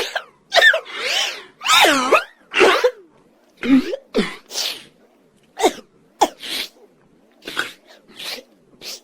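A rapid run of short, sharp vocal cries with sliding pitch, about one or two a second, louder and closer together in the first few seconds.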